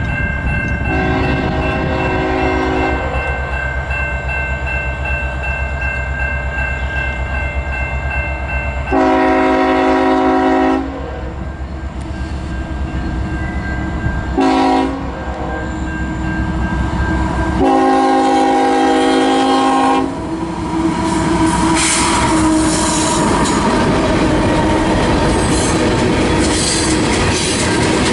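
Diesel locomotive horn sounding a grade-crossing signal of long, long, short, long, the first blast fainter, over a steady locomotive rumble. After the last blast the train rolls by with wheels clattering on the rails.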